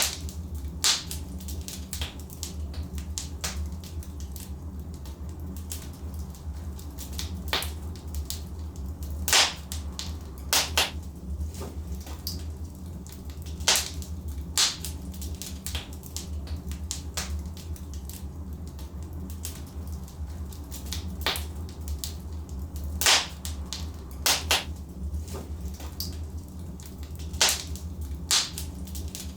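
Wood logs burning in a fireplace, crackling with irregular sharp pops and snaps over a steady low rumble of the fire.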